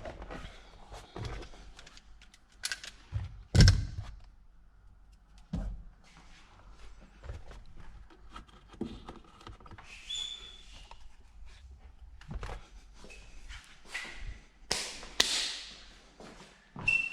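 Irregular thunks and knocks of parts and tools being handled while a car's rear interior is reassembled, the loudest thunk about three and a half seconds in, with a couple of short squeaks.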